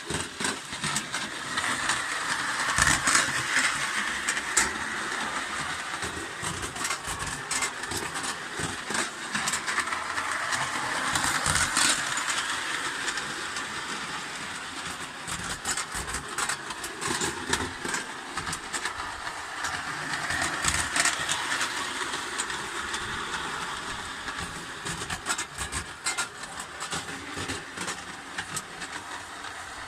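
Hornby tinplate clockwork O gauge locomotive running around its track, a steady metallic rattle full of quick clicks. It swells and fades about every nine seconds as the train comes past and goes away again.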